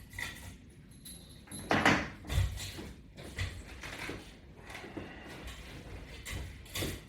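A string of irregular knocks and thumps, the loudest about two seconds in, with lighter knocks spread through the rest.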